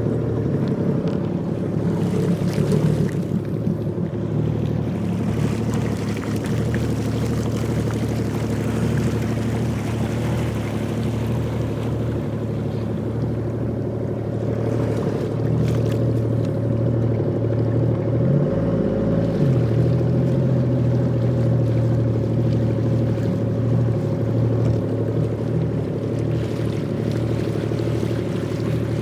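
Jet ski engine running steadily at a constant speed; its note briefly dips about two-thirds of the way through, then settles back.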